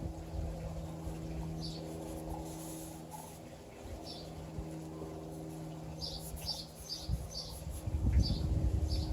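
Steady electric hum of a 12 V oil extraction pump running, with small birds chirping now and then, several in quick succession about six seconds in. A louder low rumbling noise comes in near the end.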